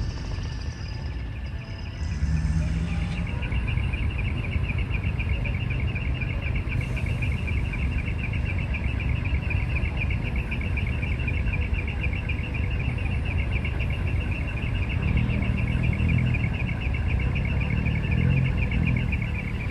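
Steady low rumble of an idling truck engine, with insects trilling continuously from about three seconds in.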